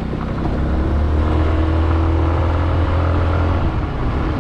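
150cc GY6 scooter's single-cylinder four-stroke engine running steadily under way, its top end freshly rebuilt and still breaking in. A strong, steady low hum holds throughout.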